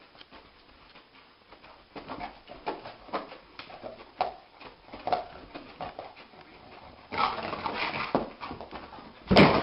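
A dog whimpering in short, repeated high cries, with a louder noisy burst near the end.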